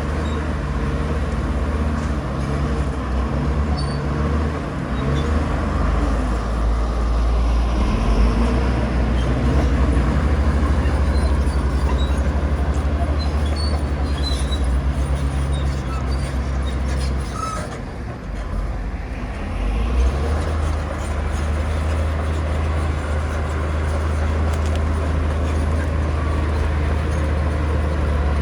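Heavy diesel engine of earthmoving machinery running steadily under load, easing off briefly about two-thirds of the way through and then picking up again.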